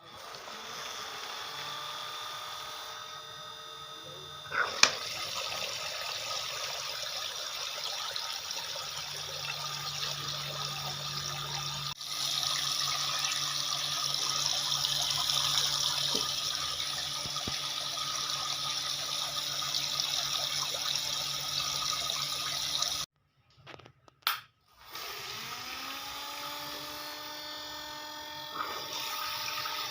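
Water falling and splashing in a small plastic-bottle fountain, with the steady whine of a 3 V submersible mini pump. The pump's tone rises as it spins up at the start, cuts out briefly about three-quarters of the way through, then spins up again.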